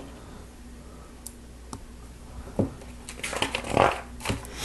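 Small plastic LEGO pieces being handled and pressed together: a few separate clicks, then a busier run of clicking and rustling in the last second and a half.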